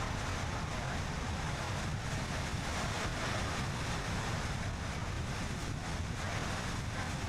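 Steady wind and road noise of a car driving at speed, with wind rushing over the microphone.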